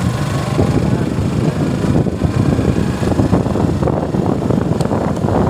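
Suzuki Gixxer motorcycle engine running on the move, with wind buffeting the microphone.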